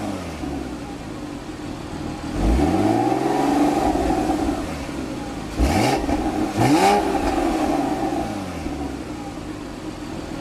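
2012 Porsche Cayman R's flat-six engine revved three times with Sport mode on, each rev rising in pitch and falling back to idle; in Sport mode the exhaust's free-flowing path is opened for a higher sound.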